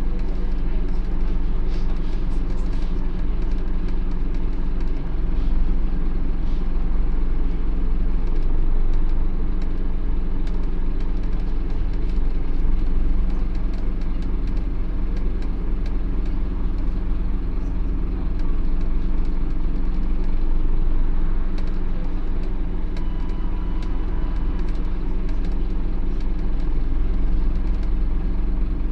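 Scania OmniCity N230UD double-decker bus running along, its engine a steady low drone that rises and falls a little with the drive.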